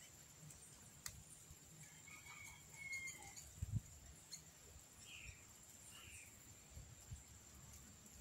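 Faint bird chirps over near silence, with two short calls about five and six seconds in. A few soft low thumps.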